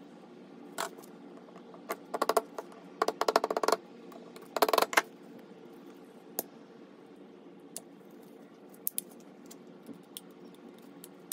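Ratchet wrench clicking in three quick runs of rapid, even clicks in the first five seconds, then a few single metallic clicks, as bolts are worked on a car starter motor.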